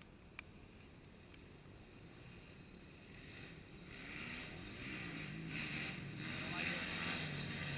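Motocross bike engine approaching, growing steadily louder from about three seconds in.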